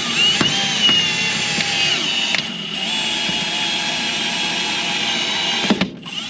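Power tool motor running with a high whine that shifts up and down in pitch as its load changes, with a few sharp clicks along the way. It cuts off just before the end.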